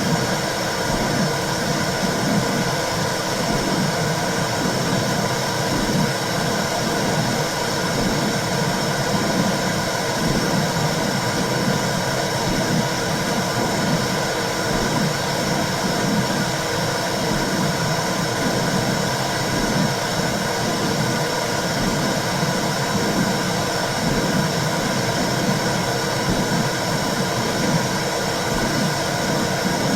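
Womb sound: a steady, low whooshing noise like blood flow heard from inside the uterus, used to soothe babies to sleep.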